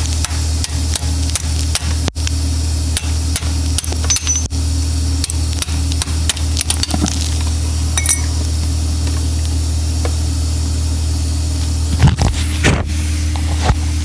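Clicks and knocks of tools and parts being handled on a truck's air brake chamber, over a steady low hum and hiss, with a few louder knocks near the end.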